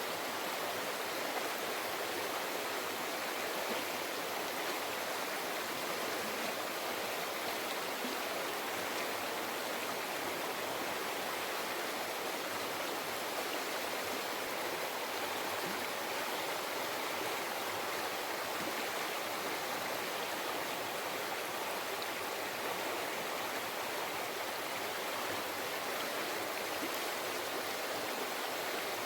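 A mountain river flowing over rocks, a steady rushing and babbling of water.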